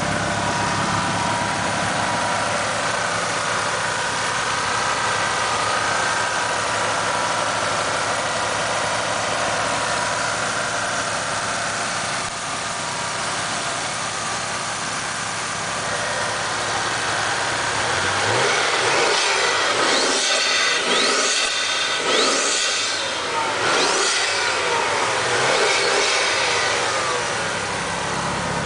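Toyota Supra's twin-turbo 2JZ straight-six running at a steady idle, then blipped several times in a row in the last ten seconds, the revs rising and falling.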